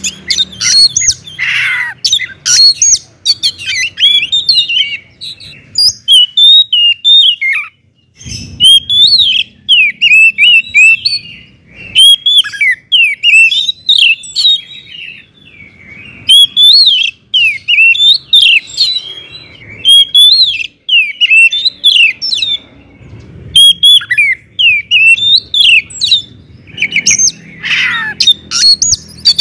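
Oriental magpie-robin (kacer) singing loudly and continuously: fast runs of sharp, gliding whistled notes and chatter with brief pauses, and a harsh rasping note about two seconds in and again near the end.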